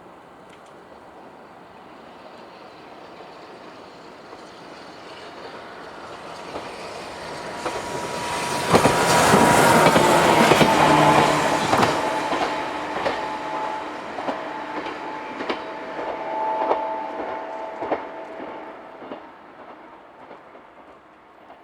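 A JR 123-series single-car electric train passes by, growing louder to a peak about ten seconds in and then fading. Rail-joint clicks and a steady whine are heard while it is near.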